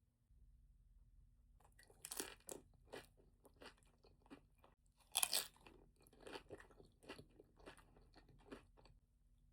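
A person biting and chewing crunchy food from a Chipotle bowl close to the microphone, a string of short crunches starting about two seconds in, with the loudest bites about two and five seconds in.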